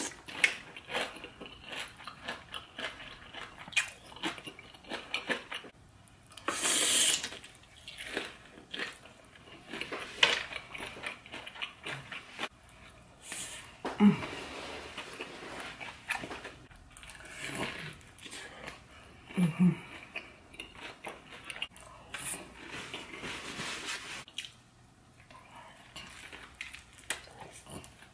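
Close-miked chewing and biting of battered deep-fried seafood, a run of short crisp crunches in uneven clusters.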